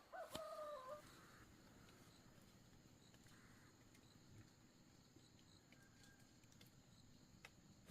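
A brief wavering animal call in the first second, then near silence with faint steady high-pitched insect noise.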